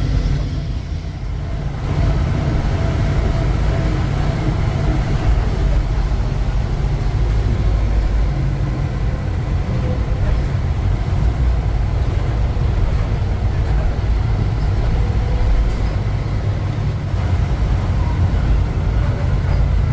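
1948 Ford F5 bus driving along: a steady, loud low rumble of engine and road noise, a little quieter for the first couple of seconds.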